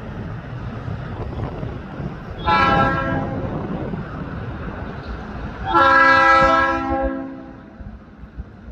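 Diesel locomotive air horn on an arriving train, sounding a short blast about two and a half seconds in and a longer blast about six seconds in, over the steady low rumble of the moving train. The rumble fades near the end.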